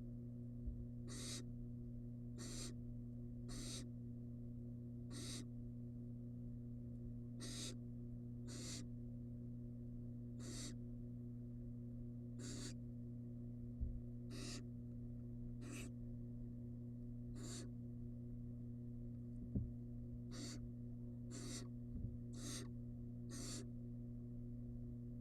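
Barn owl nestling giving repeated short hissing begging calls, about sixteen of them, one every second or two, over a steady electrical hum. A few soft low thumps come about a second in, at about 14 s, at about 20 s and near the end.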